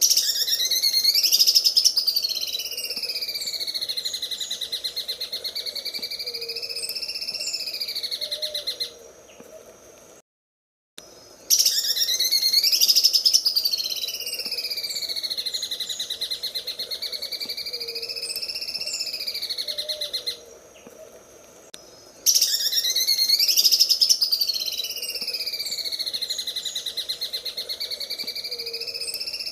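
Green leafbird (cucak ijo) singing its 'sewing machine' song: a very fast, buzzing rattle of notes that sweeps down and up in pitch. The same phrase repeats three times, about every ten seconds, with short gaps between.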